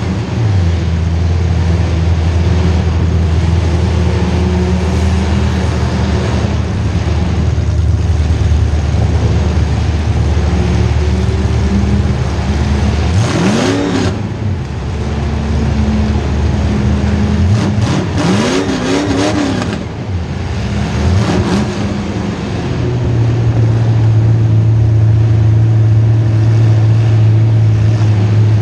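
Small-block Chevy V8 of a demolition derby car running hard, its revs climbing and dropping several times, near the middle and again a few seconds later, with harsh noisy patches at those rev changes.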